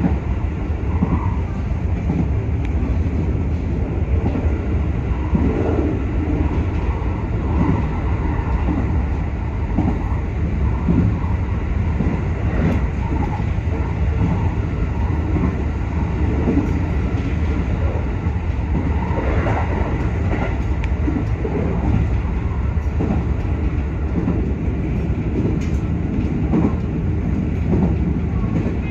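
A JR West 221 series electric train running along the track, heard from inside the car: a steady rumble of wheels on rail, with irregular clicks from the rail joints.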